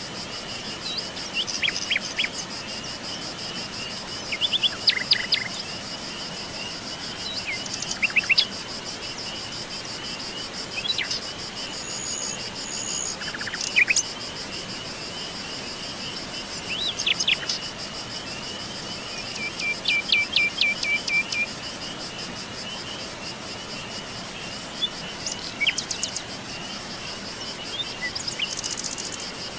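Forest ambience: several birds give scattered short chirps and quick trills over a continuous high-pitched insect trill.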